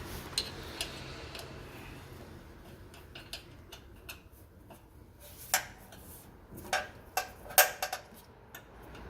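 Scattered light metallic clicks and clinks from hand work on a pellet stove's metal parts, with several louder ones between about five and a half and eight seconds in.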